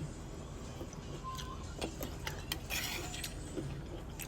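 Light clinks and taps of cutlery and dishes being handled, with a brief rustling scrape about three seconds in, over a low steady room hum.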